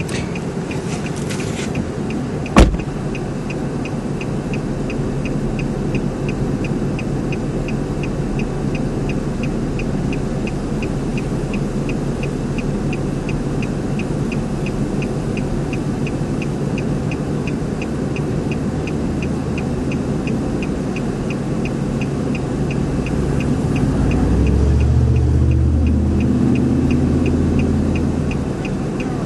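Car with its engine running, a steady rumble with a regular faint ticking about twice a second. There is one sharp click a few seconds in, and the engine note deepens and swells for a few seconds near the end.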